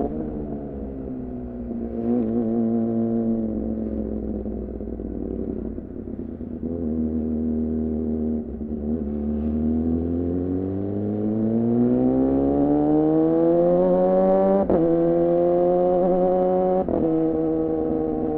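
2014 Yamaha R6 inline-four, breathing through a Leovince header and an R9 titanium muffler, running at moderate revs. The revs ease off, hold for a while, then climb steadily over about five seconds, with two brief sharp cuts in the note in the latter part.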